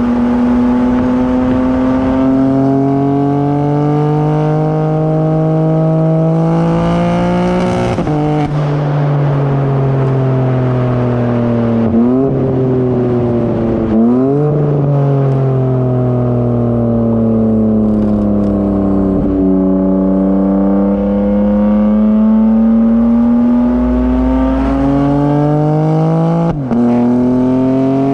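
BMW M4 Competition's twin-turbo 3.0-litre inline-six, with high-flow cats and downpipes, pulling hard through the gears. The pitch rises and drops at each shift, with a couple of quick rev blips. Midway the revs fall away steadily as the car slows, then the engine pulls up through the revs again to another shift near the end.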